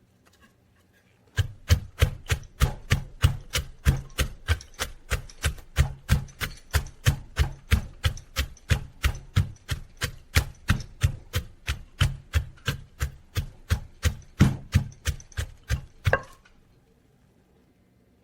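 Pestle pounding steadily in a mortar, about three dull thudding strokes a second, as papaya salad is pounded. The pounding starts about a second and a half in and stops shortly before the end.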